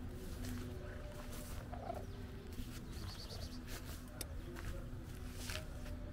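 Short, scattered bird chirps over a steady low background rumble.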